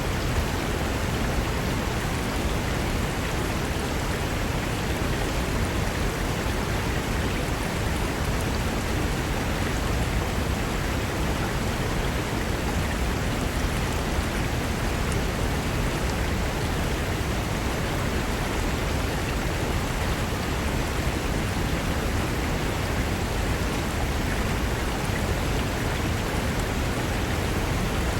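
Fast mountain river rushing over rocks, a steady full roar of water with no breaks.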